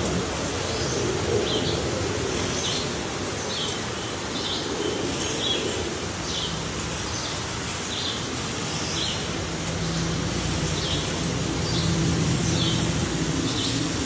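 A small bird chirping over and over, short high chirps at about one a second, over a steady rustling background.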